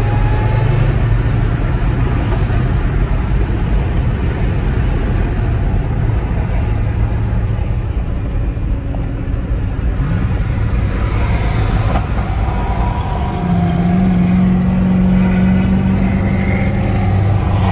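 Engine and road noise inside a Corvette's cabin while cruising at highway speed: a steady low engine drone over tyre roar. About thirteen seconds in, the engine note steps up and grows slightly louder.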